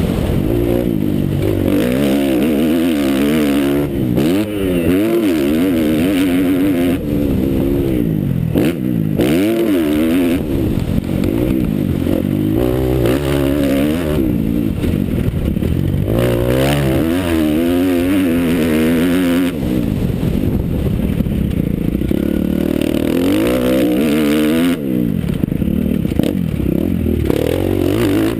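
Motocross bike engine revving hard and easing off over and over, its pitch climbing and dropping every second or two without a break.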